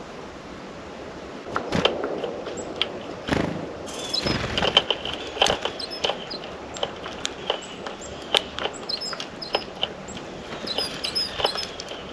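Small birds at a feeder: sharp irregular taps and clicks of beaks and feet on the feeder and seed, with bursts of short high chirps about a third of the way in and again near the end.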